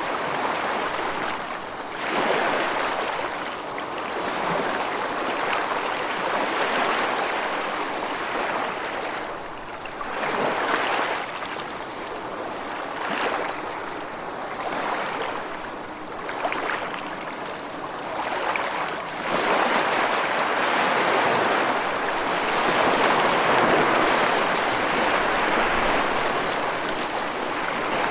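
Rushing water: a continuous wash of water noise that swells and eases every few seconds.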